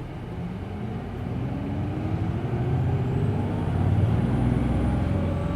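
Hino Blue Ribbon City Hybrid bus accelerating away from a stop, heard from inside the cabin. The diesel engine note climbs in pitch and grows louder over the first four seconds. A faint high whine rises and then falls in the second half.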